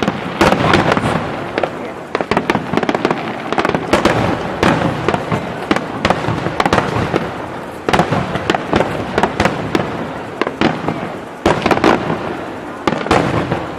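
Fireworks display: a dense, continuous barrage of shell bursts and crackling, many sharp bangs in quick succession with no pause.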